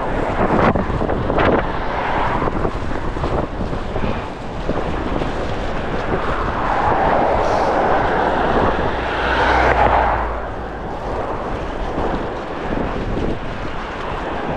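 Strong gusty wind buffeting the microphone, with a vehicle passing on the road that swells up about six seconds in and fades away after about ten seconds.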